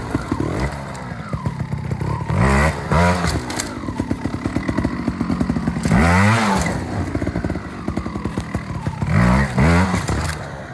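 TRS 125 two-stroke trials motorcycle engine given short, sharp throttle blips over a low running note, about five revs rising and falling quickly, in a pair, a single larger blip mid-way, then another pair near the end, as the rider picks through an obstacle section.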